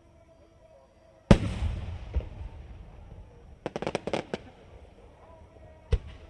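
Aerial firework shells bursting: one loud boom about a second in with a long rolling echo, then a quick run of sharp crackling pops, and another single bang near the end.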